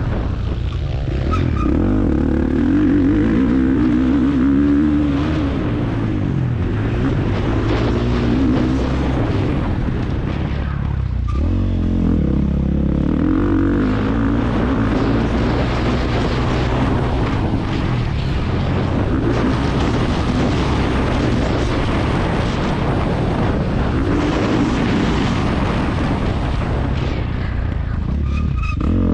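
Motocross bike engine, heard onboard during a race, revving up and down over and over as the rider works the throttle. About eleven seconds in, the revs drop low and then climb back.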